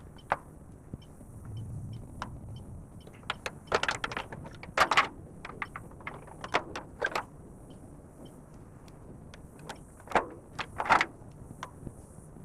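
A run of sharp knocks and clatters in three clusters, over a faint low engine hum.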